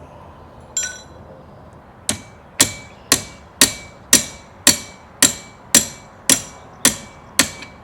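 Hammer striking metal on the hydraulic cylinder parts: one blow, then a steady series of about two blows a second, each one ringing.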